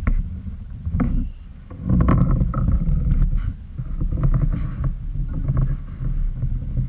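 Wind rumbling on the microphone over water noise around a kayak, with a few sharp knocks near the start and about a second and two seconds in.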